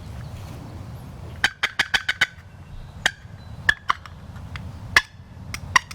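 Wild turkey calling: a quick run of short, sharp notes about a second and a half in, then scattered single notes.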